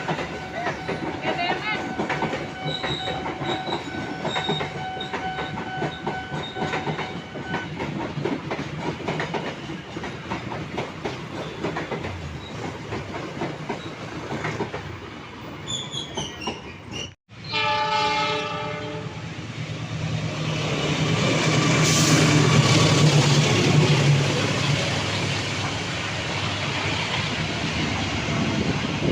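A train passing on the line with its horn sounding a steady chord for the first several seconds, over the running rumble and clack of wheels on the rails. After a sudden break, another train rumbles past, growing louder to a peak a few seconds later.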